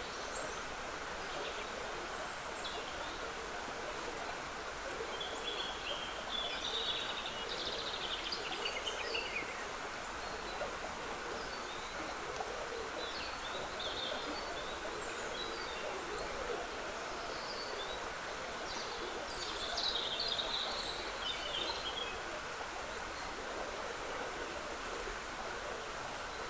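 Shallow woodland water trickling steadily, with songbirds singing short, high phrases over it, the fullest bursts of song around a quarter of the way in and again past two thirds.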